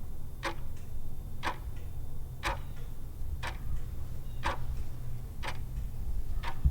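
Clock ticking about once a second over a low steady hum: a countdown-timer sound effect during a quiz answer pause.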